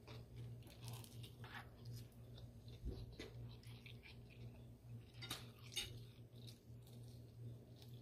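A person chewing food, faint, with scattered small mouth clicks over a low steady hum.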